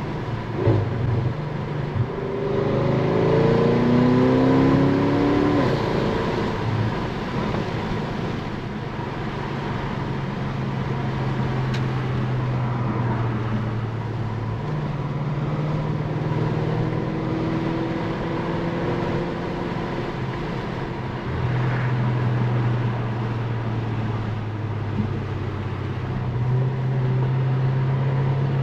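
Tuned Audi S6 engine and exhaust while driving. It accelerates with rising revs a couple of seconds in, loudest a few seconds later, then settles to steadier cruising with lighter throttle changes.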